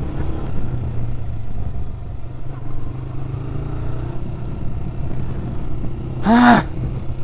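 Yamaha R15 V4 motorcycle engine running steadily while riding, a constant low hum. About six seconds in, a short voice-like sound briefly rises and falls in pitch.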